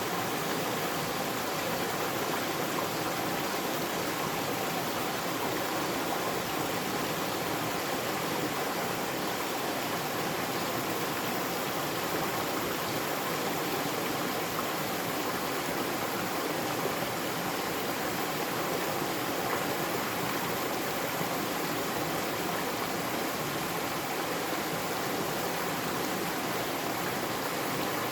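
Mountain valley stream flowing, a steady rush of water that stays even throughout.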